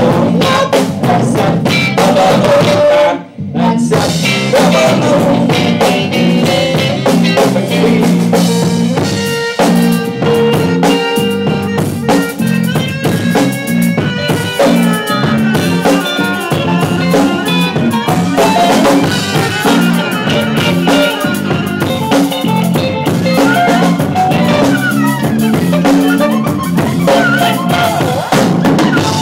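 Live jam band playing an instrumental passage, driven by a full drum kit with snare and bass drum under bass and guitar. The band drops out for a split second about three seconds in, then comes straight back in.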